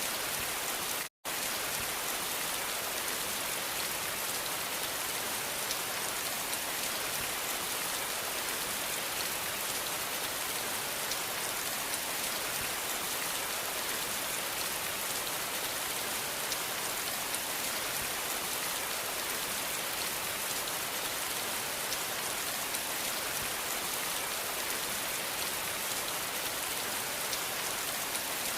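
Steady rain falling, an even hiss of drops, with a split-second gap of dead silence about a second in.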